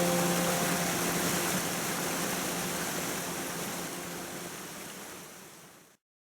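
Mountain stream rushing as a steady hiss, with held notes of background music dying away in the first second or two; the whole sound then fades out gradually to silence near the end.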